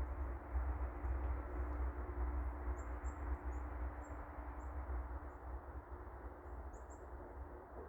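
Chickadees giving short, very high-pitched chips, about nine scattered through the middle of the stretch, over a steady low rumbling background noise.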